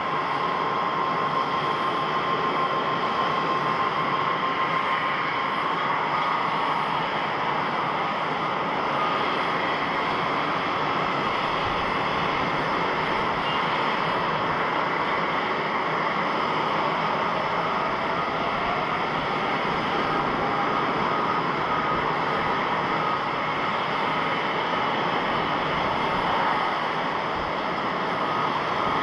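Rolls-Royce Trent XWB jet engines of a Japan Airlines Airbus A350 (JA13XJ), a steady loud rush with a faint whine over it for the first few seconds.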